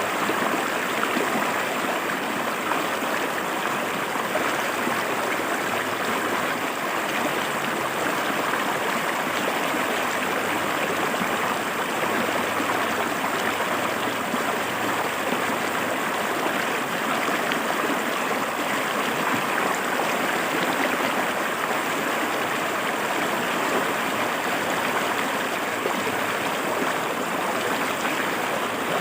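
A river flowing over rocks, steady rushing and splashing water with no change throughout.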